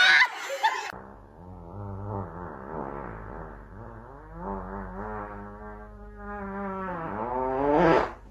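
A dog howling in long, wavering pitched tones, rising sharply in pitch near the end.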